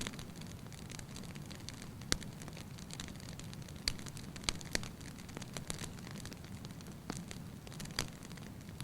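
Wood fire burning in an open fireplace, crackling with irregular sharp pops over a steady low rush of the flames.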